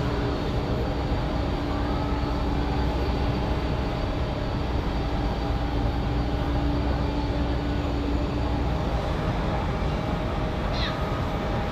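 Jet airliner engines running: a steady rumble with several held whining tones, one low tone dropping out about three-quarters of the way through.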